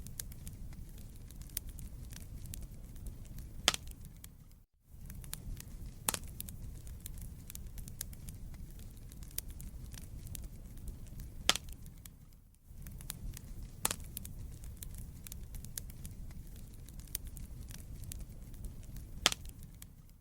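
Wood fire in a fireplace crackling: a steady low rumble of burning logs with sharp pops every couple of seconds. The sound dips briefly to near silence twice, about five seconds in and again about twelve seconds in.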